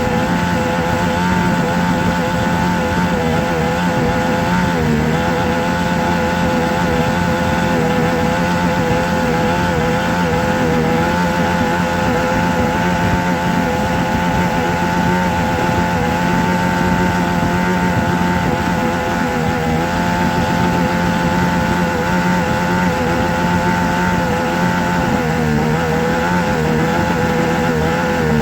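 A small motor running continuously, a steady hum whose pitch wavers slightly.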